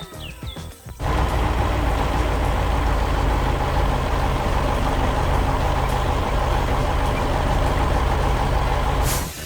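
Heavy truck engine sound effect running steadily at a constant pitch. It starts abruptly about a second in and cuts off suddenly near the end.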